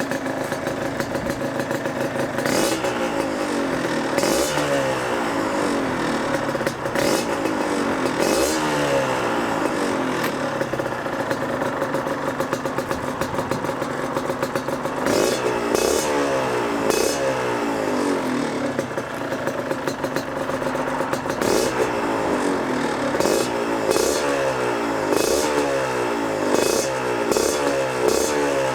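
Yamaha DTR 125's single-cylinder two-stroke engine idling for a moment, then revved in repeated short blips, each one rising in pitch and falling back to idle, with sharp crackles at some of the peaks.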